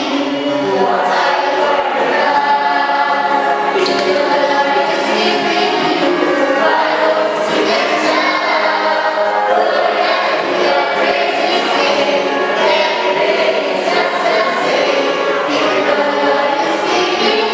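Choir singing, many voices together, steady throughout.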